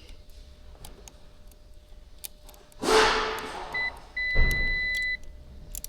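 Multimeter continuity beeper: a short chirp, then a steady high beep of about a second as the probes make contact, signalling a closed circuit through the fuse to the relay. A brief rustle of handling comes just before it.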